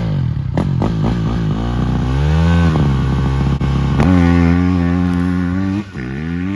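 Motocross bike engine revving under acceleration, its pitch climbing, dropping and climbing again as the throttle and gears change, with a short drop off the throttle near the end.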